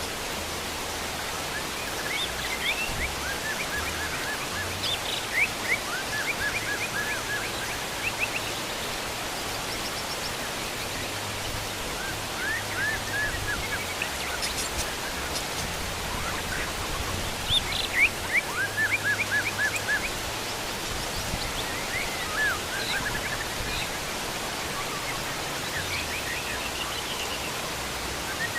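Steady heavy rain falling, with wild birds calling over it in repeated runs of short, quick chirps.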